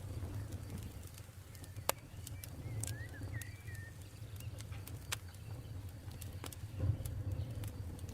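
Campfire crackling, with sharp pops of burning wood at irregular intervals, the loudest about two seconds in, over a low steady rumble. A bird gives a few short chirps about three seconds in.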